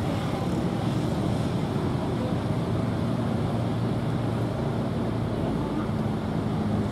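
KAI Bandara YIA airport train running slowly toward the listener as it shunts to another track: a steady low rumble with an even hum.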